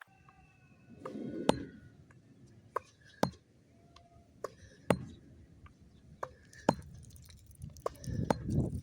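Tennis balls struck by racquets and bouncing on a hard court during a rally: a run of sharp pops, the loudest about every second and a half to two seconds with fainter ones between. Wind rumbles on the microphone about a second in and again near the end.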